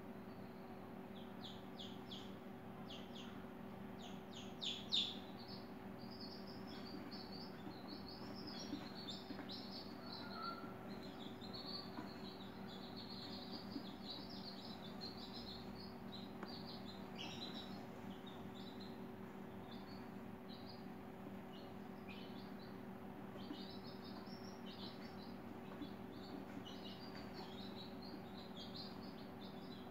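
Small birds chirping and twittering in quick, irregular high-pitched calls throughout, with a louder burst of chirps about five seconds in, over a steady low hum.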